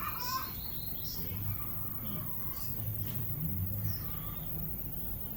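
Birds chirping in short scattered calls over a steady low background rumble.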